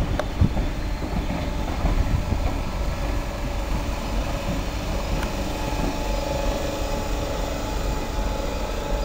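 First Capital Connect electric multiple-unit train pulling out over the station pointwork, giving a steady low rumble as it moves away.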